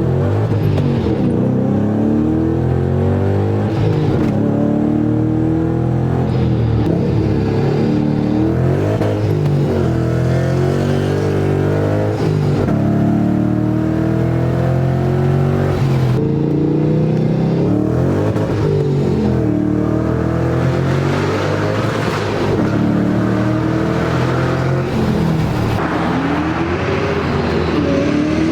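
Supercharged Ford Mustang GT 4.6-litre three-valve V8 running through a Borla S-Type exhaust, its pitch rising and falling again and again every few seconds under repeated revving or acceleration.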